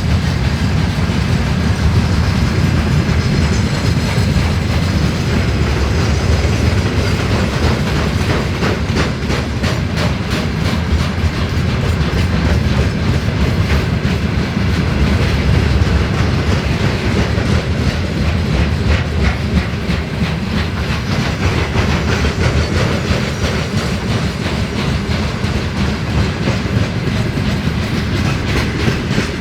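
Freight train wagons rolling past at speed, a continuous heavy rumble with a steady clickety-clack of the wheels over the rail joints.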